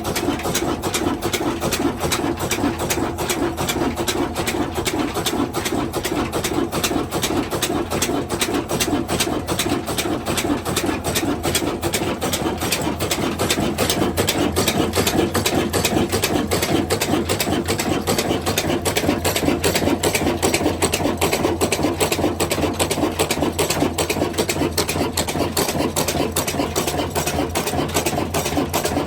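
Diesel engine running steadily with an even, rapid beat of firing strokes.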